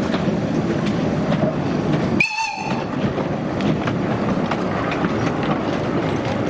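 Narrow-gauge train running along the track: a steady rumble with many small clicks from the wheels and rail joints. A short, high whistle-like tone sounds briefly about two seconds in.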